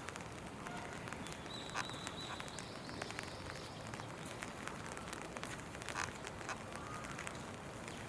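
Steady rain falling, with frequent sharp ticks of drops hitting close by.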